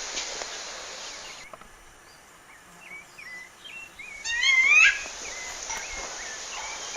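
Rufous-bellied thrush (sabiá-laranjeira) calling. First come a few soft, short chirps, then about four seconds in a loud, brief burst of rapid up-and-down notes. A steady hiss cuts off suddenly about a second and a half in.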